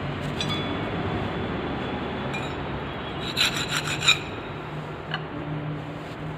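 Steady rubbing and scraping from hand work on a scooter wheel and tyre, with a quick run of clicks and knocks about three and a half seconds in.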